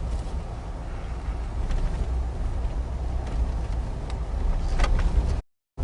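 Steady low rumble of a car driving, heard from inside the cabin, with a few faint ticks near the end before the sound cuts out briefly.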